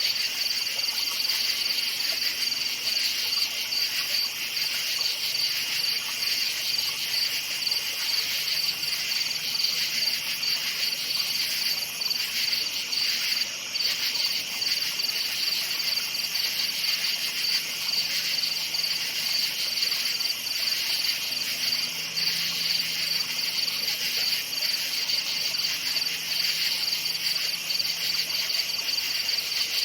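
Crickets chirping at night in a dense, continuous chorus, a steady high-pitched trilling pulse.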